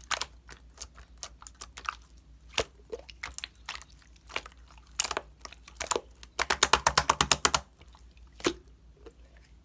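Scattered sharp clicks and taps, with a fast run of rapid clicks lasting about a second, a little past the middle.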